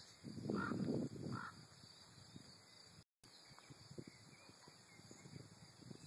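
Two short harsh bird calls about a second in, less than a second apart, over low, uneven rumbling noise on the phone's microphone.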